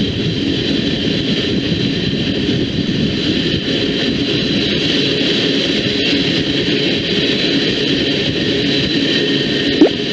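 Train passing close by: a steady, loud rolling noise of wheels on rail, with a brief rising squeal near the end.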